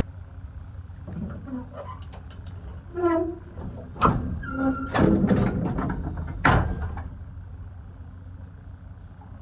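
Several loud clunks and rattles, the loudest about four, five and six and a half seconds in, with short squeaks just before, over a steady low hum.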